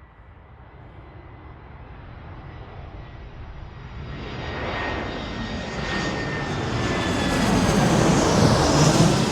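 Airplane passing overhead, its engine noise growing steadily louder and brighter as it approaches, with a faint steady whine above the rumble.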